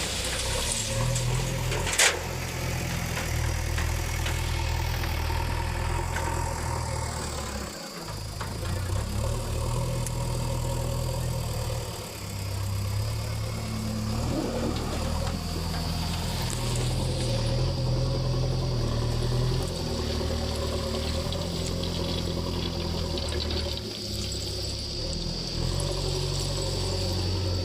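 JCB 3DX backhoe loader's diesel engine working under load, its pitch rising and falling repeatedly as the hydraulics are worked, with a sharp metallic clank about two seconds in.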